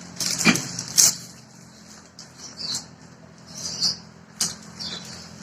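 Plastic ciki snack packet crinkling and rustling as it is torn open and handled, in irregular short crackly bursts with a few sharper snaps.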